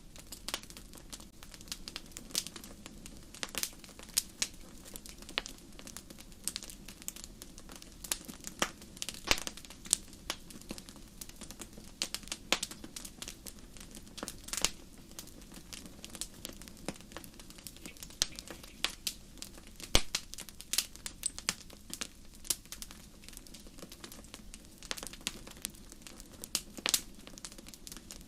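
Wood fire burning in a fireplace, crackling with irregular sharp pops over a steady low rumble of flame.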